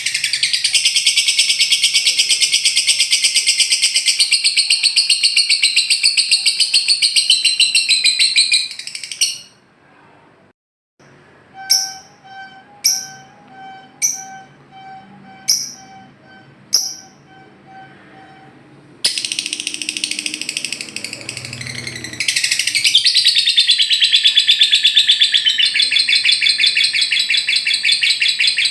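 Lovebird giving its long 'ngekek' song, a loud, very rapid high chattering trill that stops about nine seconds in. After a short pause come about six sharp separate chirps, roughly one every second and a half, over a faint steady tone. The long trill starts again about two-thirds of the way through.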